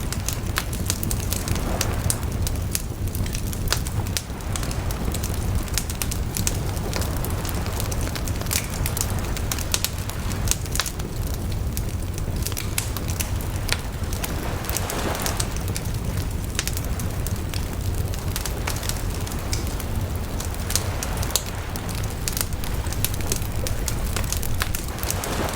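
Wood fire crackling and popping steadily, with many sharp snaps over a low rushing rumble of the flames. A few brief whooshing swells come and go, around two seconds in, midway, and near the end.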